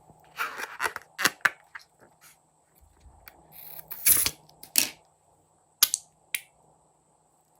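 Hands working slime and balloons, making a series of short sharp clicks and sticky crackles: a cluster in the first second and a half, the loudest a little past the middle, and two more near the end.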